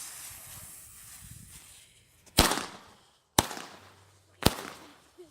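Firecrackers going off: a fading hiss, then three sharp bangs about a second apart.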